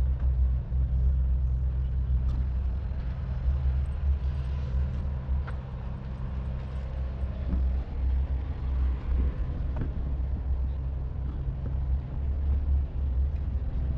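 Large diesel engine idling steadily, a low, even rumble with a steady hum.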